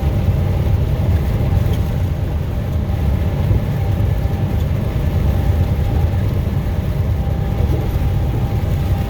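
A car driving at road speed, heard from inside the cabin: a steady low rumble of engine and tyre noise with a faint, even hum above it.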